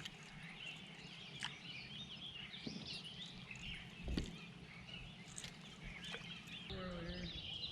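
Faint birds chirping and singing over a quiet steady outdoor background, with a couple of light knocks, the clearest about four seconds in.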